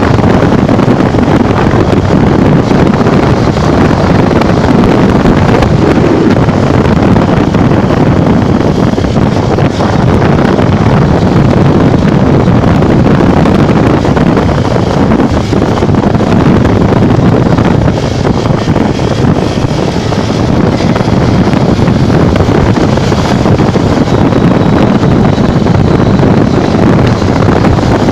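Steady, loud wind roar on the microphone of a Honda Bros 150 motorcycle riding at road speed, with the bike's running drowned in it.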